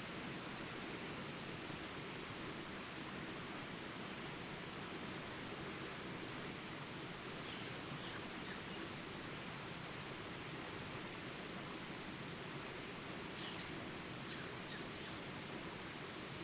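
Steady high-pitched trilling of crickets over a soft even background hiss, with a few faint short chirps in the second half.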